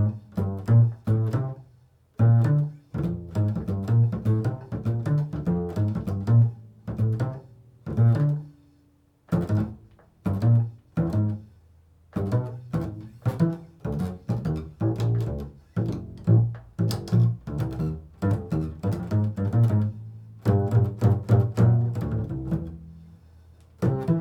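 Improvised solo on a plucked bass, quick phrases of low notes built on the interval of a third, with short pauses about two seconds in, around eight seconds in and near the end.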